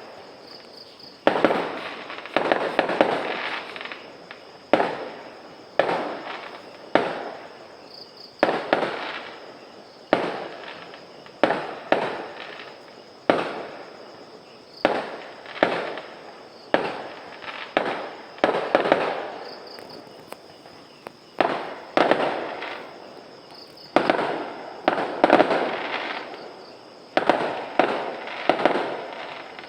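Fireworks going off in a steady series: a sharp bang about every one to two seconds, each trailing off over a second or so.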